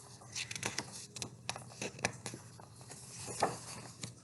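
Light taps and paper rustling from a picture book being handled, with a slightly louder rustle about three and a half seconds in.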